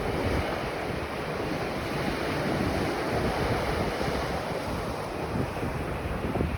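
Ocean waves breaking and washing on a beach, a steady rushing surf that swells gently, with wind buffeting the microphone.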